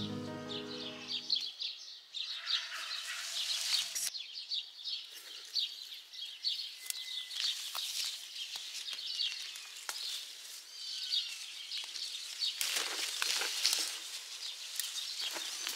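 Small birds chirping and twittering continuously, many quick high notes. Bouts of scratchy rustling come in near the end.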